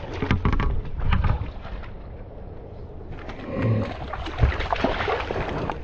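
Splashing in river water with irregular knocks and rustling of rough handling close to the microphone, as a hooked trout is fought and landed by hand.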